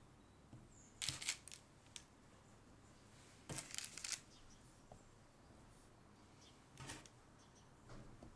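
Soft clicks and taps of small objects being handled, in a few short clusters about a second in, around three and a half to four seconds, and again near seven and eight seconds.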